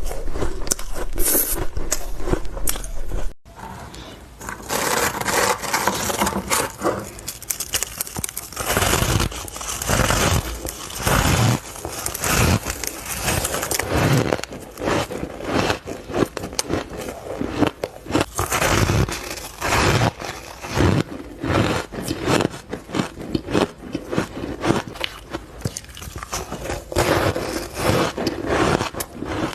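Close-miked biting and crunching of ice and powdery freezer frost, a rapid run of crisp crunches one after another, broken by a sudden brief gap a few seconds in.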